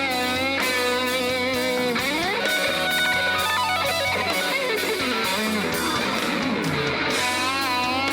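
Live rock band music: an electric guitar lead, sliding and bending with vibrato, over the band's accompaniment.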